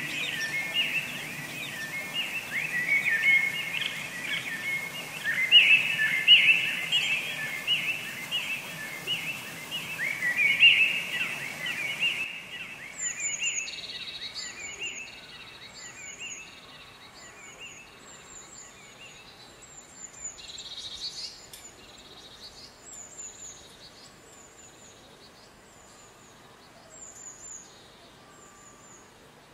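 Birds chirping: a dense run of chirps, then, about twelve seconds in, a switch to short high calls repeating roughly once a second and fading away.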